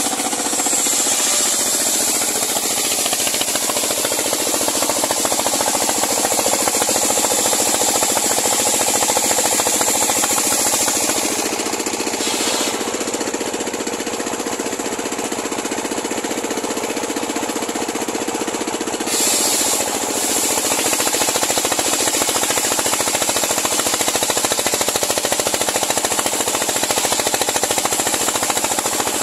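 Homemade engine-driven circular sawmill running at a steady loud level with a fast, even pulsing. From about twelve to nineteen seconds in the sound changes, its high hiss falling away, then returning.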